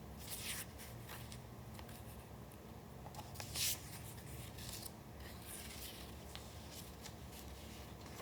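Paper being handled for a collage: a series of short, soft rustles and scrapes, the loudest about three and a half seconds in.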